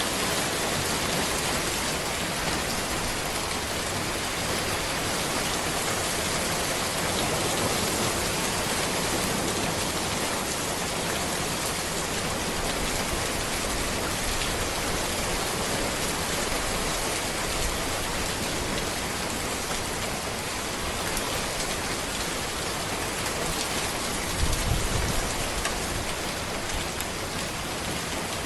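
Steady rain falling on a road, an even hiss of drops with no letup. About three-quarters of the way through, a brief low rumble rises under the rain.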